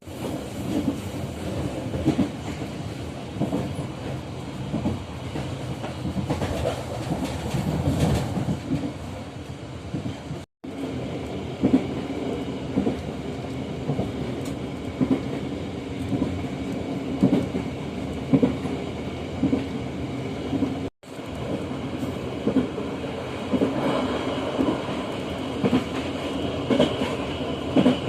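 Local economy passenger train running on the rails, its wheels clacking over the rail joints in a regular rhythm of about one clack a second over a steady rumble. The sound cuts out abruptly twice, about a third and two-thirds of the way through.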